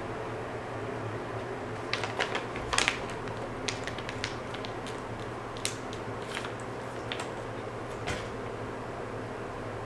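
A dog chewing a chicken stick treat: irregular crisp clicks and crunches over several seconds, against a low steady hum.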